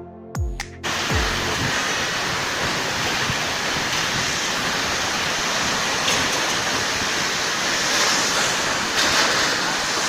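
Electronic music cuts off under a second in, giving way to a steady rushing of water spray inside a running abrasive vegetable washing-and-peeling machine with rotating rollers.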